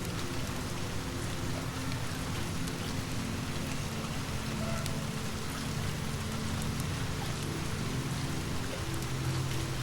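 Steady rain falling, with scattered faint clicks and a low steady hum underneath that grows a little stronger near the end.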